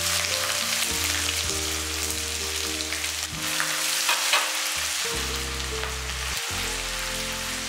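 Chopped ginger frying in hot sesame oil with a mustard-seed and curry-leaf tempering, a steady sizzle. Background music plays underneath.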